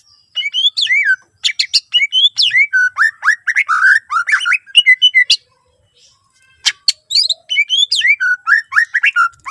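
Cucak ijo (green leafbird) singing a fast, loud run of whistled, sliding notes, its song laced with imitated phrases of other birds. The song pauses about five and a half seconds in and resumes after a couple of sharp clicking calls.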